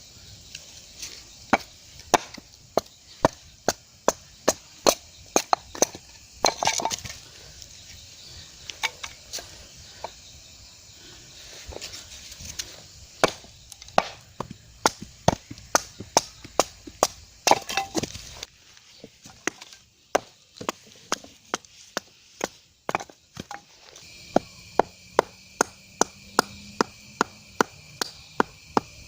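Rapid, regular chopping: sharp strokes about two to three a second, with a few short pauses and a quieter stretch partway through.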